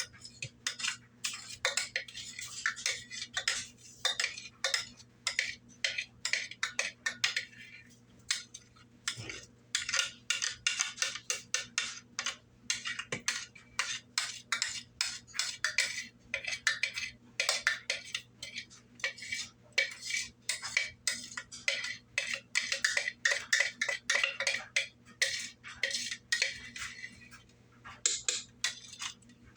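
A metal utensil clinking and scraping against a stainless steel pot in rapid, irregular strokes, as when stirring a pot's contents. A faint steady hum runs underneath.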